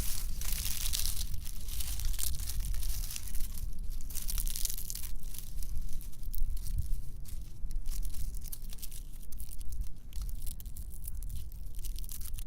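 Dry fallen leaves crunching and crackling in a dense, irregular run of small crackles.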